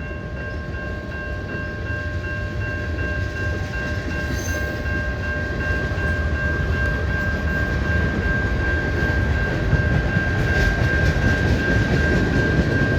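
Freight train cars rolling past: a steady rumble of wheels on rail with a continuous high-pitched whine held over it, growing a little louder in the second half.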